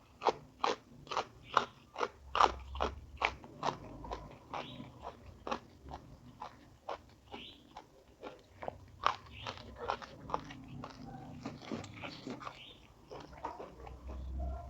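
Close-up crunchy chewing: a person biting and chewing crisp food in a steady rhythm of about two or three crunches a second. The crunches are loudest in the first few seconds, then softer and more uneven, with a louder run again about nine seconds in.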